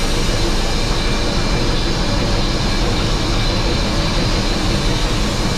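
Train led by steam locomotive 3801 running along the line: a steady, loud rush of movement and wheel-on-rail noise, heard from the front of the locomotive.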